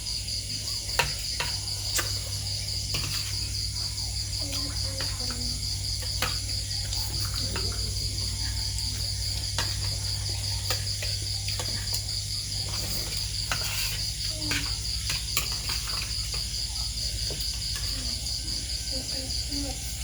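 Insect chorus of crickets, a steady high trill pulsing quickly over a low steady hum, with scattered sharp clicks.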